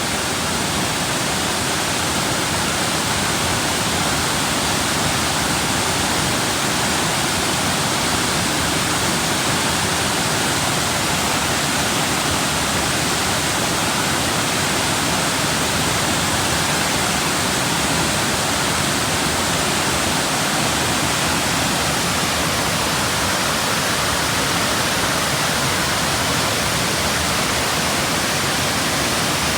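Waterfall: a loud, steady rush of falling water that stays even, with no breaks.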